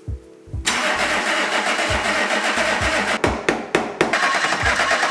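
BMW E28's starter cranking the engine over for its first start after ten years standing: a steady churning with uneven thumps about twice a second, starting just under a second in.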